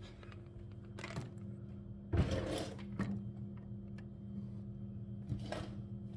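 A few knocks and handling noises, the loudest about two seconds in, over a steady low hum.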